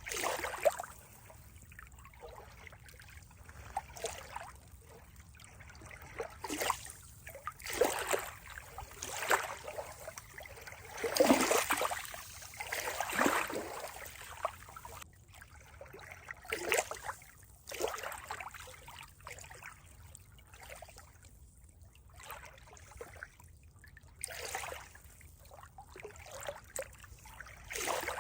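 Water trickling and splashing in uneven surges, the loudest swell coming about eleven to thirteen seconds in.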